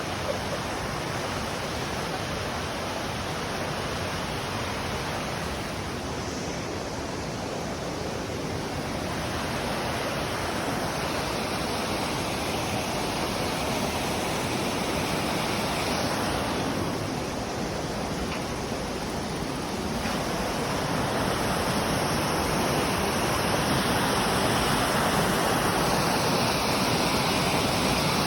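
Minoh Falls pouring: a steady, dense rush of falling water, growing a little louder about two-thirds of the way through.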